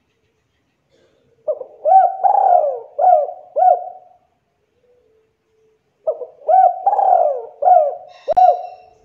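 Spotted dove cooing: two bouts of its song, each a run of five or six short coos that bend in pitch, one longer coo in the middle of each. The bouts start a little over four seconds apart.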